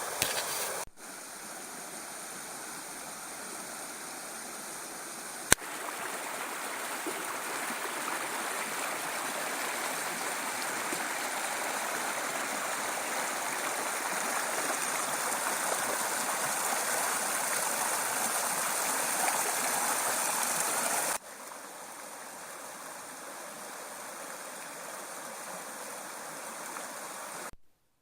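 Small stream rushing over rocky rapids, a steady rush of water that grows slightly louder through the middle, drops suddenly in level about 21 seconds in and cuts off abruptly near the end. A single sharp click about five and a half seconds in.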